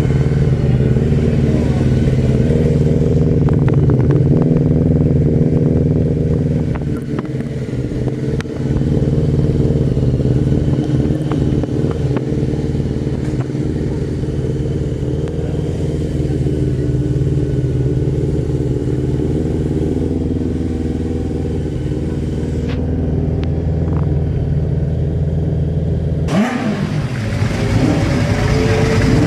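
Classic motorcycle engine running steadily at idle. About 26 seconds in the sound changes abruptly and an engine revs up and down.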